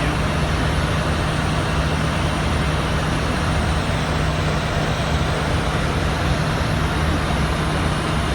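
Steady flight-deck noise of an Airbus A310 on short final approach: even rushing airflow and engine noise with a constant low hum.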